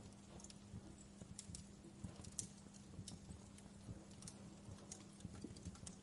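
Wood fire in a fireplace crackling quietly: irregular sharp pops and snaps, several a second, over a soft low rumble of the flames.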